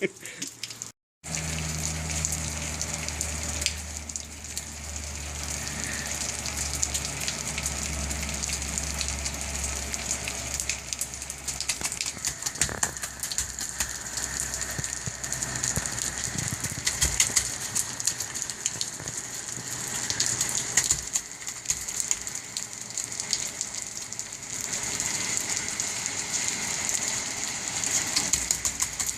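Steady rain falling and hitting hard surfaces, a continuous hiss dotted with many small drop ticks. A low hum sits under it for the first ten seconds or so.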